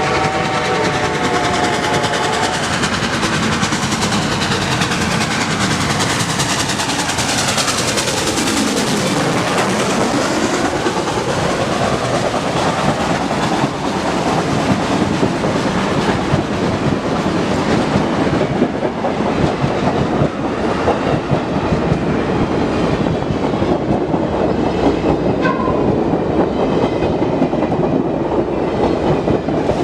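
Reading 4-8-4 steam locomotive No. 2102's chime whistle sounds and ends about two seconds in. The locomotive then passes close, working hard up the grade, and the train's cars roll by with a clickety-clack of wheels over rail joints.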